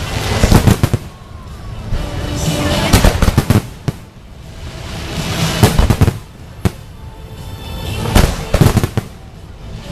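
Aerial fireworks display: shells bursting in clusters of sharp bangs and crackles about every two to three seconds, with swells of rumbling noise between the volleys.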